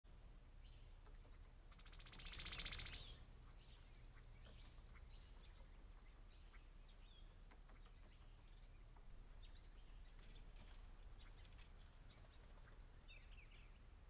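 Wild birds calling and chirping around a backyard bird feeder. A loud, harsh, rasping call lasting about a second comes about two seconds in, followed by scattered short high chirps.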